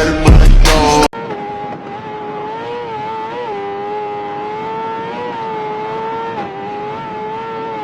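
Rap music cuts off abruptly about a second in, giving way to a motorcycle engine running at a steady high speed, its pitch wavering slightly up and down with the throttle.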